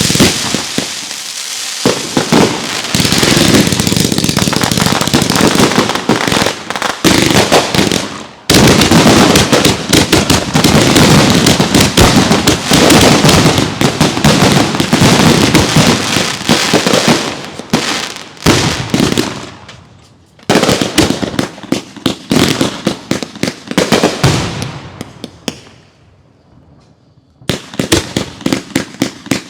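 Consumer fireworks going off in quick succession, with dense crackling and many sharp bangs. About 25 seconds in they die down to a brief lull, then a rapid string of bangs starts up again.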